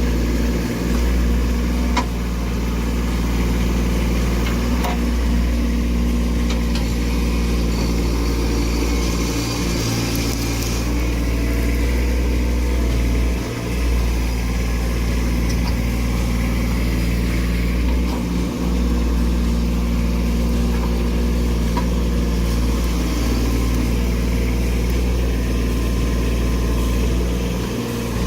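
Engine of a compact machine working a mini stump bucket, running steadily under load and dipping briefly a few times.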